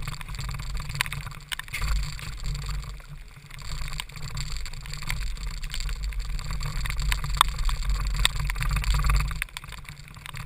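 Onboard sound of a KZ2 shifter kart's 125cc two-stroke engine running on a wet track, muffled under wind and a hiss of water spray, with scattered sharp ticks. The engine sound falls away sharply near the end.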